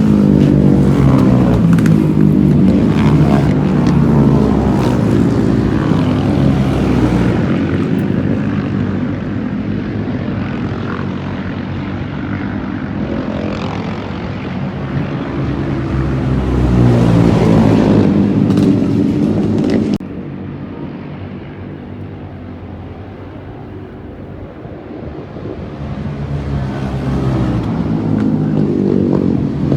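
Air-cooled single-cylinder Rotax engine of a supermono racing motorcycle running hard, revving up and down repeatedly. Its level drops suddenly about two-thirds of the way through, then builds again near the end.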